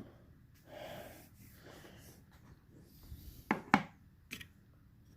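Soft rubbing, then three sharp little clicks in the second half, two close together and one just after, as small plastic scale-model parts are handled at a workbench.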